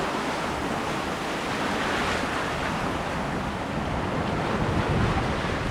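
Choppy lake water with whitecaps washing around a moving sailboat, with wind blowing on the microphone; a steady rushing noise.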